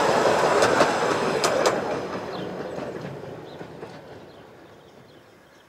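Miniature railway train running on its track, its wheels clicking sharply over the rail joints a few times in the first two seconds, the running noise then fading steadily as it moves away.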